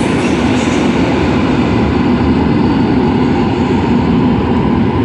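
Polregio EN57AL electric multiple unit running along the platform track: a loud, steady rumble of the train in motion.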